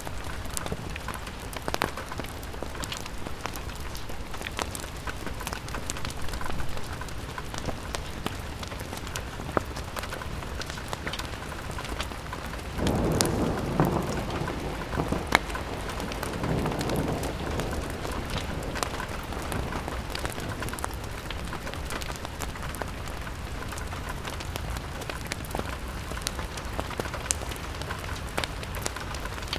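Steady rain pattering on a window pane, with scattered sharp ticks throughout. About thirteen seconds in, a low rumble swells for about four seconds, then fades back under the rain.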